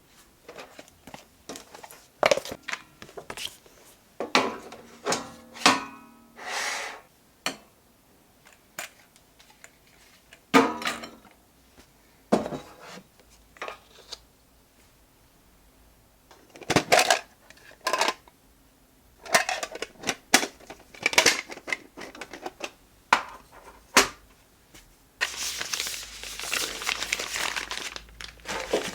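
Household objects being handled and set down: irregular clicks, knocks and short scrapes, then steady crinkling of packaging over the last few seconds.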